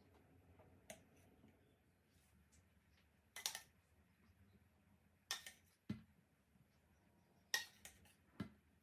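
A handful of short, sharp clinks of kitchen utensils against dishes, spaced a second or two apart, over near silence.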